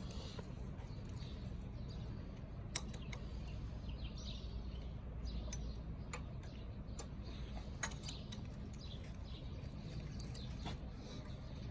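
Scattered light clicks and taps of hand work on engine parts over a steady low hum, with a few faint high bird chirps.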